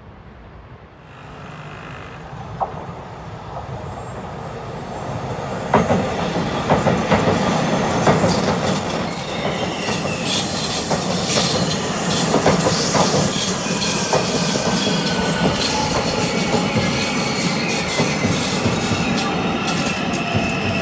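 Taiwan Railway train approaching and running past on the line: a rumble that builds from about a second in and is loud from about six seconds, with wheels clacking over rail joints and a high wheel squeal.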